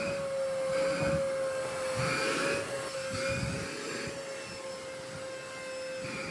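Vacuum cleaner running, a steady motor whine over a rush of air that swells and fades every second or so.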